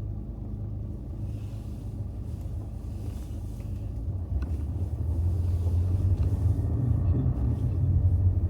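Car driving, heard from inside the cabin: a steady low rumble of engine and road noise that grows louder about four seconds in.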